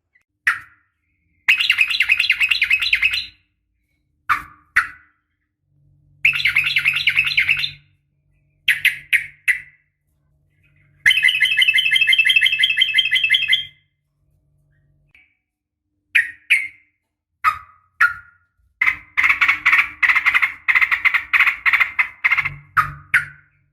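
Sooty-headed bulbul (trucukan) calling in bursts of rapid chattering trills, each a second or two long, broken by short single notes and brief pauses; the longest run of calls comes near the end. A faint low hum lies under some of the phrases.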